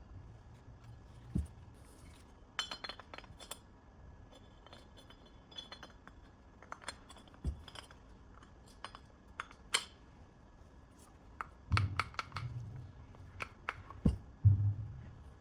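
Irregular metallic clicks and clinks of hand tools and small metal parts being handled, with a few dull knocks, the loudest near the end. No motor is running.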